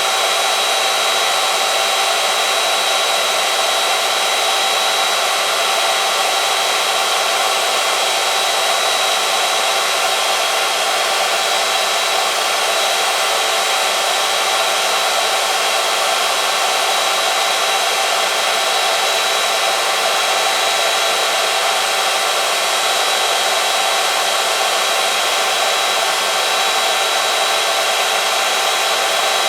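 Oil-film strength test machine running steadily, its electric motor spinning a shaft that rubs against a steel test sample lubricated with two-stroke oil. It gives an even, unchanging whine with a high steady tone over a hiss.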